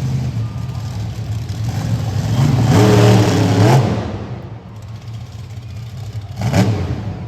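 Monster truck engine running, revving hard with rising pitch about two and a half seconds in, then dropping back, and giving a second short rev near the end.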